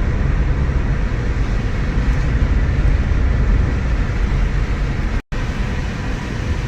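Steady road noise of a car being driven, tyre and engine rumble heard from inside the cabin. The sound cuts out completely for a split second about five seconds in.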